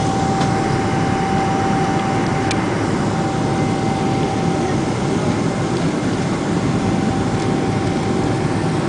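Cabin noise inside a Boeing 777-200 airliner, heard from a seat over the wing: a steady rumble of the engines and airflow with a steady whine above it.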